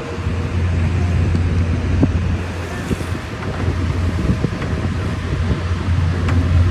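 Steady roar of the Rhine Falls, with wind rumbling on the microphone.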